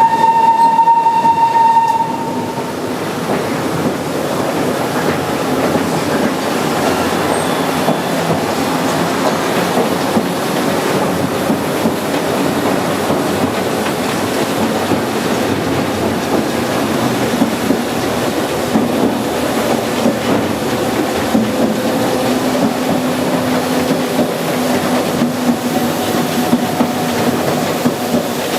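The Botchan train, a diesel-powered replica steam train, sounds its whistle as one steady tone for about two seconds. It then runs steadily along the tram rails, with wheel clickety-clack over the running noise.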